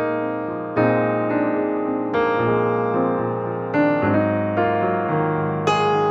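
Background music: slow, gentle piano playing sustained chords, a new chord struck about every second or so.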